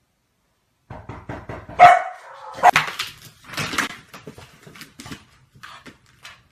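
A dog barking repeatedly, the loudest barks about two and three seconds in.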